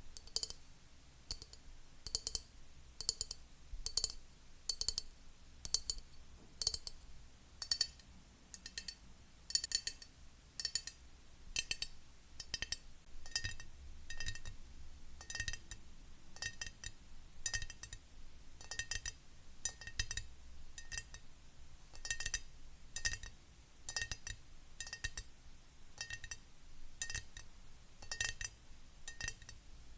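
Fingernails tapping on a glass object: a run of crisp clicks about one or two a second, often in quick doubles, each with a short, high, clear ring.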